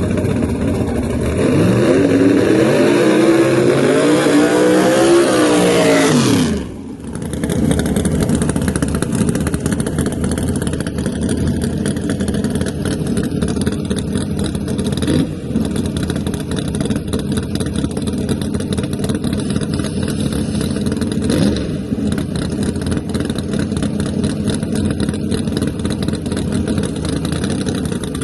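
A drag car's engine at high revs, its pitch climbing and then arching back down over about six seconds. It breaks off suddenly, giving way to a steady loud rumble of race engines running, with brief blips of revving.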